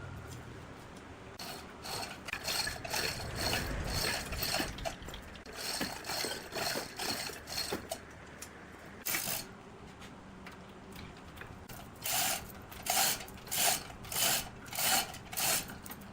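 Rhythmic scraping strokes on wood, irregular at first, then about six sharp strokes a little over half a second apart near the end.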